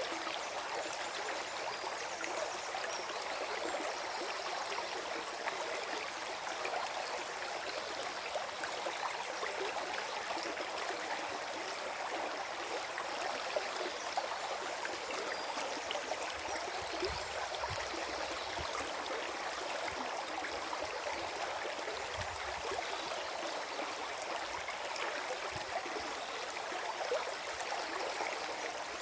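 Small forest stream gurgling and trickling steadily over stones, a continuous babble of water.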